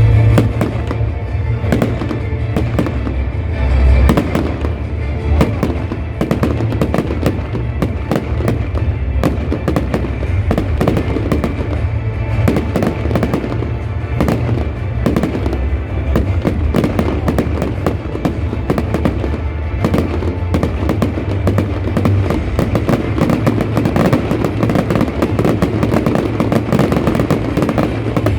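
Dense, continuous crackling and popping of many New Year's Eve fireworks and firecrackers going off at once, with music underneath.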